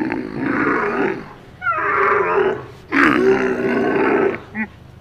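An animal calling: a series of drawn-out, rough calls, each about a second long, with short gaps between them.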